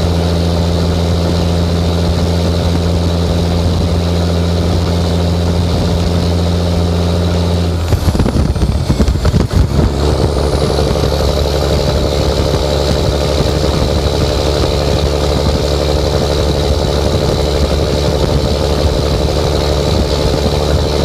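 Straight-piped 11.1 L Series 60 Detroit diesel in a loaded dump truck running loud and steady. About eight seconds in its note breaks up for about two seconds, then settles into a new steady note.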